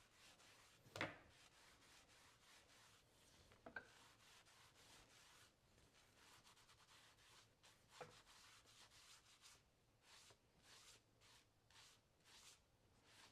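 Faint rubbing of an applicator wiping Tan-Kote finish onto the grain side of a leather belt, in soft repeated strokes, with light knocks about a second, four and eight seconds in.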